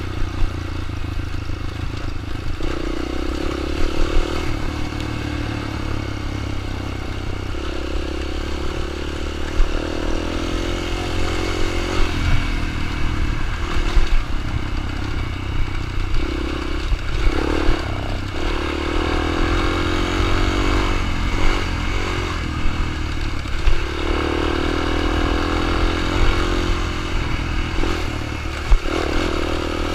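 Small dirt bike engine running, its note swelling and dropping off several times as the throttle is opened and closed, with scattered clicks and clatter.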